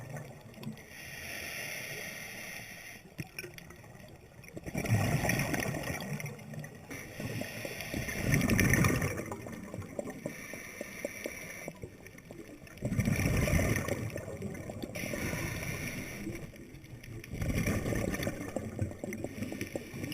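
Scuba diver breathing through a regulator underwater: a gurgling rush of exhaled bubbles every four seconds or so, with quieter hiss between breaths.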